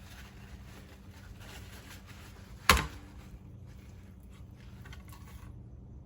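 Soft rustling and dabbing of paper towel pressed onto raw chicken thighs to pat the skin dry, with a single sharp knock a little under three seconds in.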